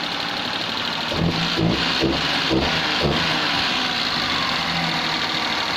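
Perodua Nippa's small three-cylinder petrol engine running unevenly, with a run of short bursts of revs about a second in. It sounds a bit farty, which the owner takes for an air leak on the inlet side.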